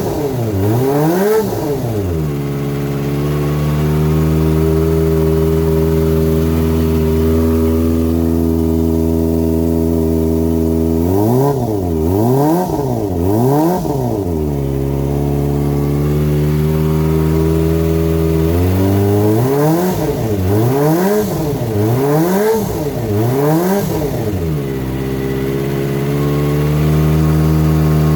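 Kawasaki ZX-25R's 250 cc inline-four, fitted with an LCIPARTS GP titanium full exhaust system, idling steadily and being blipped with the throttle, each rev rising and dropping quickly. The blips come in groups: two at the start, three around the middle and about five in a row later, with steady idle between.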